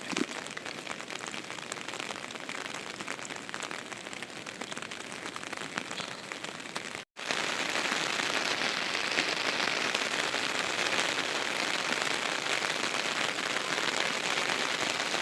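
Steady rain falling, an even hiss of drops. It breaks off for an instant about seven seconds in, then comes back louder.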